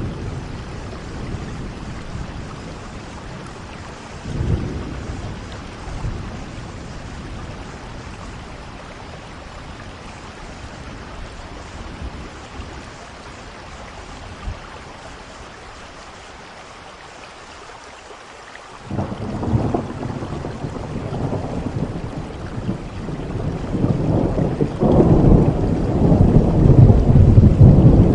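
Steady rain with thunder: a short low rumble about four seconds in, then a long rolling rumble that starts suddenly about two-thirds of the way through and grows louder near the end.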